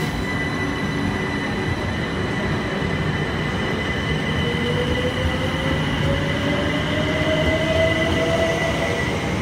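Southern Class 377 electric multiple unit moving at the platform, its rumble carrying steady high whines. From about halfway through, a second whine rises slowly in pitch as the train picks up speed.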